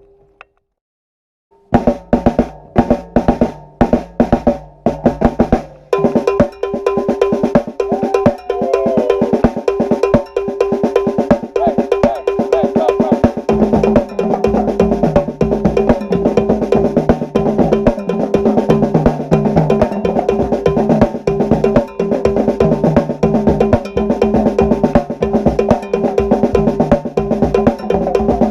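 A drum ensemble playing: after a brief cut to silence, single drum strokes spaced out, then from about six seconds in a fast, dense groove of snare and bass drum with ringing drum tones.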